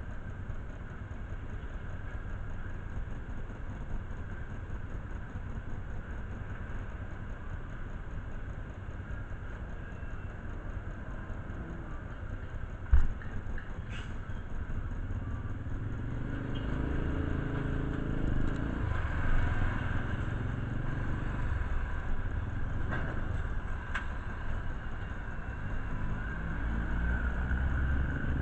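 Motor vehicle engine running with steady road noise. There is one sharp knock about halfway through, and the engine grows louder in the second half.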